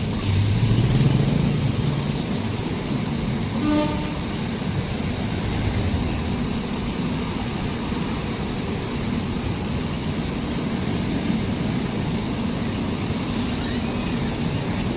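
Train running with a steady rumble and noise, a low hum rising in the first couple of seconds, and a short pitched toot about four seconds in.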